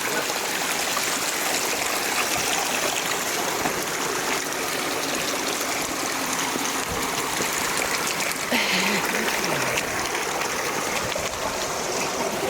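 Mountain stream running: a steady rush and babble of flowing water.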